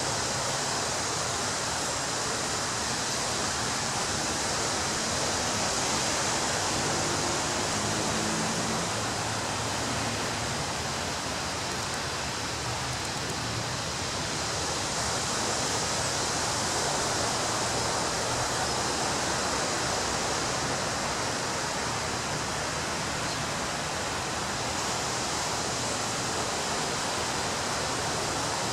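Ocean surf breaking on a beach: a continuous rushing wash of waves that swells gently about every ten seconds.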